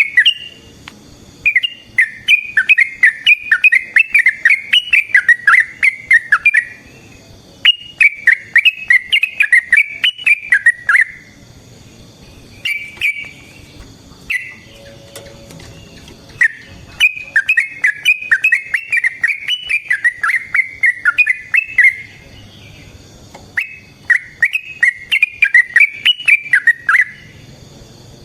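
Yellow-vented bulbul (trucukan) singing long, rapid rolling phrases of bubbling notes, each run lasting several seconds with short pauses between. A steady high insect buzz sounds in the pauses.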